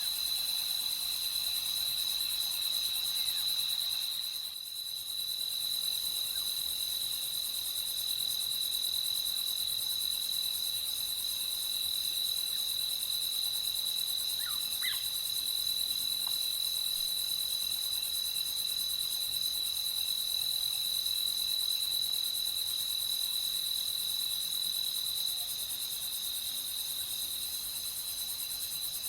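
Night insect chorus: crickets trilling steadily on one high pitch over a dense, hissing buzz of other insects. The chorus dips briefly about five seconds in, and a faint short call sounds about halfway through.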